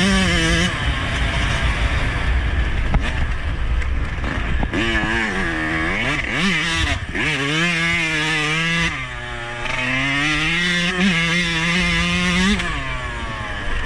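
Yamaha YZ125 two-stroke single-cylinder dirt bike engine being ridden at high revs, its pitch rising and falling with throttle and gear changes, then held fairly steady before the note drops away near the end.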